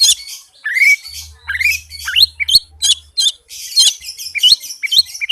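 Oriental magpie-robin (kacer) singing a fast, dense song: quick rising whistled notes run together with harsh scratchy notes, several a second with hardly a gap.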